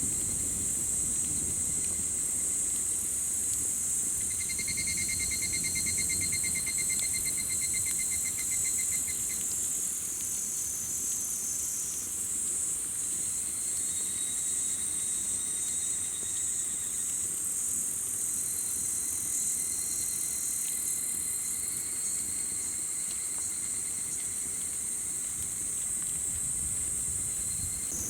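Summer insects calling steadily in a high-pitched chorus, with one caller giving a fast pulsing trill between about 4 and 9 seconds in. Underneath is the low rush of a campfire burning, with a few faint crackles.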